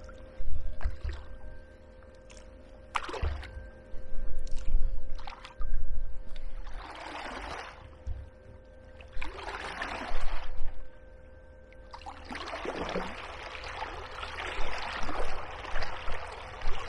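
Kayak paddle strokes swishing and splashing through the water, several in a row near the middle and end, with a few sharp knocks early on, over the steady hum of a Hiqmar EP18Li electric fin motor driving an inflatable kayak.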